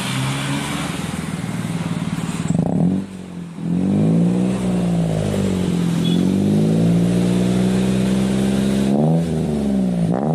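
Toyota Agya's engine through an aftermarket Remus-style dual-outlet muffler, idling, then revved: a quick blip about two and a half seconds in, revs rising, falling and held for several seconds, and two sharp blips near the end.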